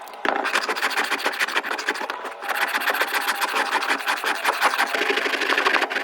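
Fast, even scraping strokes on the metal of a pair of rusty scissors, of the kind made when the blades are rubbed clean or filed. It starts just after the opening, with a short break about two seconds in.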